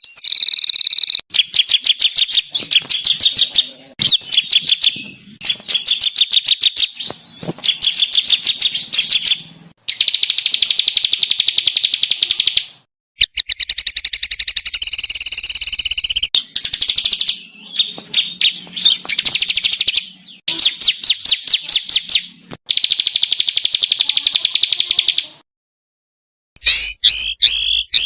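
Small songbirds calling in rapid-fire trills: fast runs of sharp, high, repeated notes. They come in bursts a few seconds long, with brief silences between.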